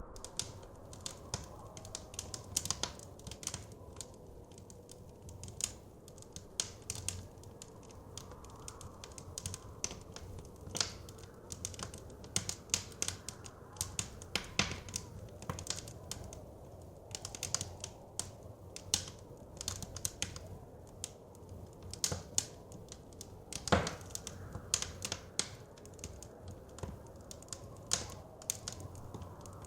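Wood fire crackling in a fireplace: irregular sharp pops and snaps, at times several a second, over a low steady rumble, with one louder pop a little past the middle.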